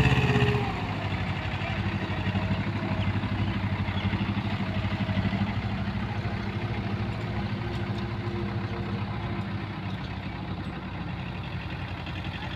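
Diesel engine running steadily with an even firing pulse; a louder sound drops away about half a second in.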